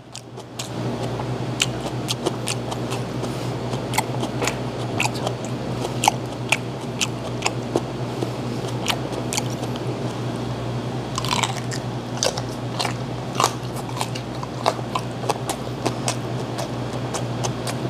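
Close-up chewing of whole grilled gizzard shad (jeoneo), with many sharp crunchy clicks as it is bitten and chewed. A steady low hum sits underneath.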